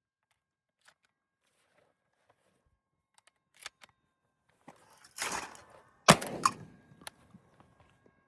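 A Benelli M2 20-gauge semi-automatic shotgun fires once about six seconds in, a single sharp report, followed within a second by two smaller clacks. A few faint clicks and a short rushing noise come before the shot.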